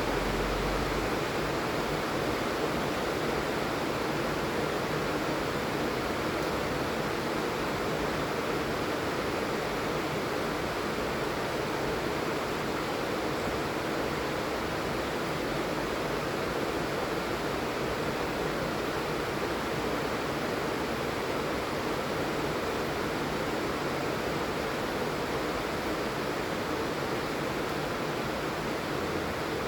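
Steady heavy rain falling, an even unbroken hiss with no single drops standing out.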